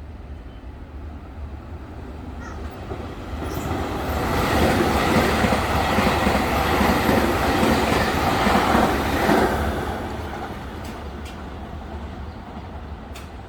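Nankai electric train running past the station: its rumble builds about three seconds in, is loudest for about five seconds, then fades away.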